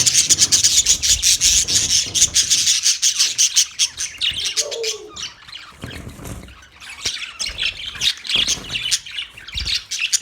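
Budgerigars chirping and chattering in quick, dense bursts that thin out around the middle and pick up again near the end.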